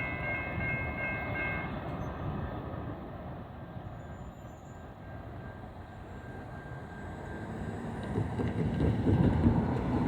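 Amtrak SC-44 Charger locomotive's horn sounding a chord that cuts off about two seconds in, over the low rumble of the passing passenger train. The rumble eases, then grows louder again near the end.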